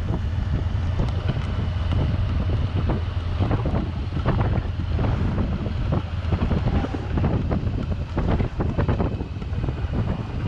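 Car driving in the rain, heard from inside: a steady low rumble of road and engine with scattered irregular taps and knocks.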